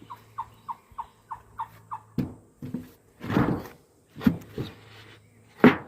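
A quick run of short squeaky chirps, about three a second, for the first two seconds. Then knocks and rustling as the emptied swarm trap box is handled and moved, with the loudest knock near the end.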